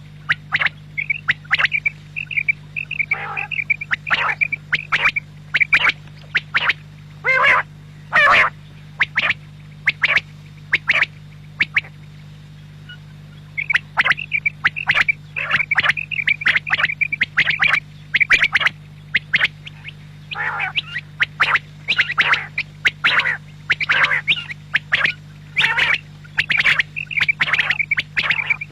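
Quail (batair) calling: runs of quick, sharp, clicky notes repeated over and over, breaking off for about two seconds near the middle before starting again. A steady low hum lies underneath.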